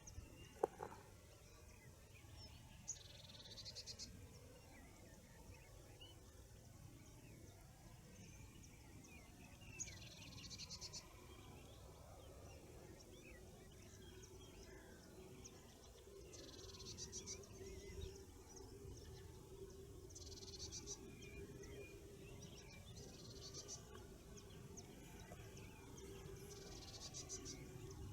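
Faint birdsong outdoors: a bird repeats a short, fast, high trill every few seconds, with scattered faint chirps between. A single sharp click sounds just under a second in.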